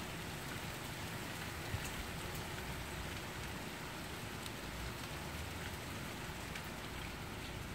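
Steady rain falling during a thunderstorm, with scattered drop ticks and one sharper tick just under two seconds in.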